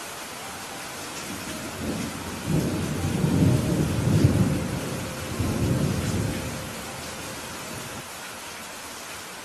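Steady rain hissing, with a long roll of thunder rumbling through it in several swells from about two seconds in, fading out about seven seconds in.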